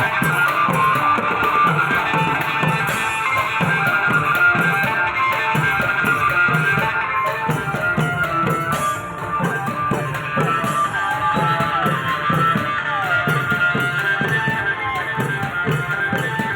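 Thai klong yao (long drum) band playing: long drums beating a steady rhythm under a sustained melody line.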